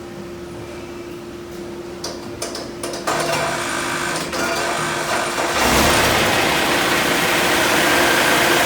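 Cummins ISX inline-six diesel engine starting: clicks and a rising mechanical whir, then the engine fires a little past halfway through and runs on loudly.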